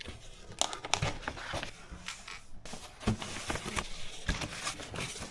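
Light rustling and crinkling with scattered small knocks and clicks as things are handled.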